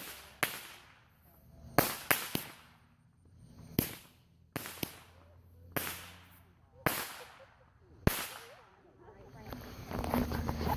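Fireworks going off: about a dozen sharp bangs at uneven intervals, each trailing off in an echo. A steadier rush of noise builds near the end.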